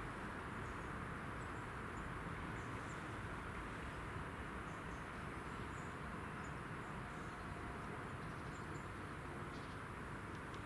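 Steady outdoor background noise, a constant hiss with a low rumble, with scattered faint short high chirps.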